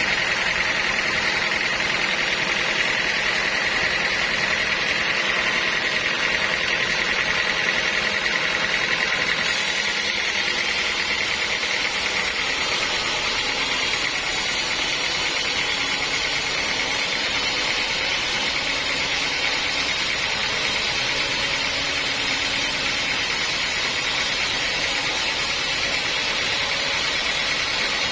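Sawmill saw running steadily: a continuous, even mechanical noise with no breaks. About ten seconds in, a little more high hiss comes in.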